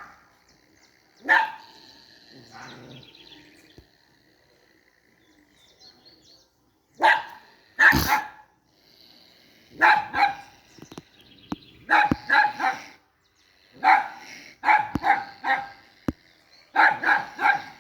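A dog barking at an opossum in short bursts of two to four barks, with pauses between the bursts.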